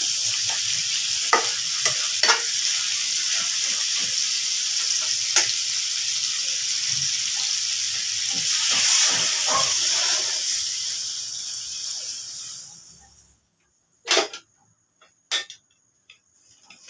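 Food sizzling in a frying pan while it is stirred, with a few clicks of the utensil against the pan. The sizzle dies away about thirteen seconds in, followed by two sharp knocks.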